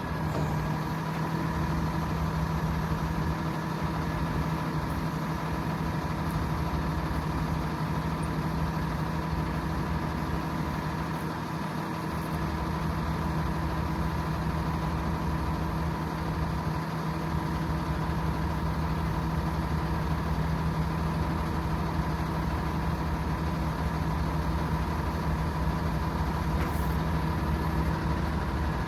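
Hino 338's 7.6-liter turbo diesel engine running steadily at idle.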